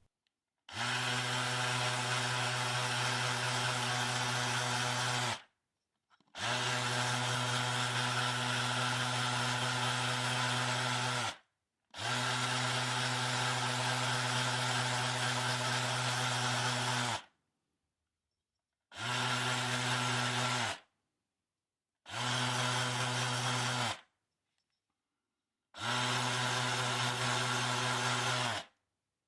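A small electric power tool runs at a steady, unchanging pitch in six separate runs of about two to five seconds each, with abrupt silent gaps between them. It is at work on a basswood shaving handle.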